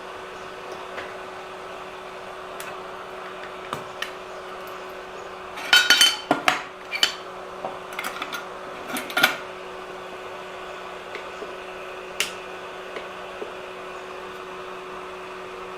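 Small hard objects such as tools and parts clinking and clattering as they are handled and set down on a work mat, with a burst of knocks about six seconds in, more about nine seconds in and a single one later. Under them runs a steady electrical hum.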